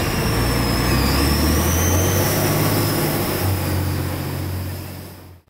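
CNG-powered Autocar ACX rear-loader garbage truck's engine running, a steady low drone with a thin wavering high whine above it, fading out and cutting off near the end.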